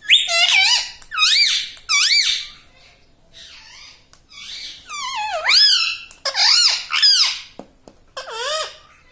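Pet parrot giving short, high, squeaky calls that rise and fall in pitch: three in quick succession at the start, then a run of four from about five seconds in.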